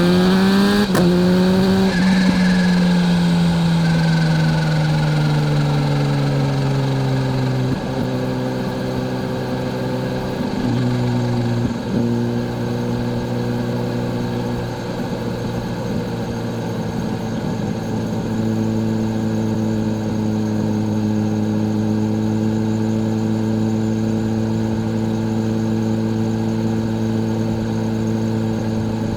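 Kawasaki Z H2's supercharged inline-four engine pulls up briefly, then rolls off with its engine note falling for several seconds and a faint high whine falling with it. After a few short breaks in the note, it settles into a steady lower note at cruise.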